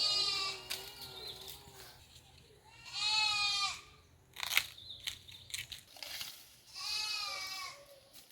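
Goat bleating three times, each a quavering call of about a second, with a fainter, lower wavering call under the first. A sharp click about halfway through.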